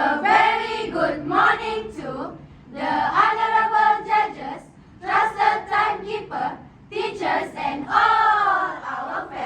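A choral-speaking group of children voicing lines together in unison, in four phrases of about two seconds each with short pauses between.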